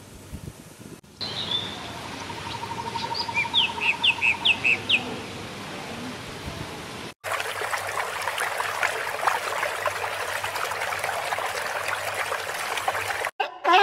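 Small birds chirping in short, quick calls, with a rapid trill underneath. About seven seconds in, this cuts to a steady splashing and trickling of water.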